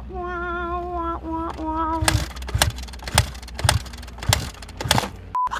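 A drawn-out, wavering vocal wail for about two seconds. Then a Kawasaki KX250F four-stroke dirt bike is kicked over again and again, a thump roughly every 0.6 seconds, without the engine catching. A short steady beep sounds near the end.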